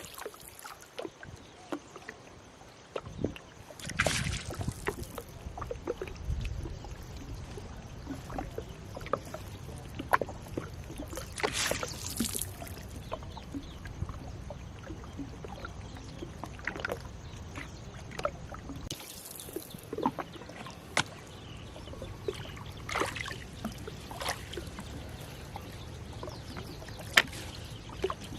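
Splashes and knocks of a gill net being hauled over the side of a small boat: scattered sharp clicks and several brief rushes of water, over a low steady rumble.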